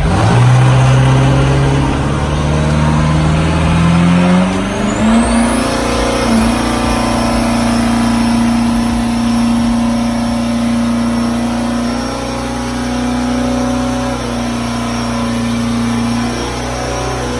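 A vehicle engine revs up steadily over about five seconds, then is held at high revs with a loud, steady drone, easing slightly about twelve seconds in.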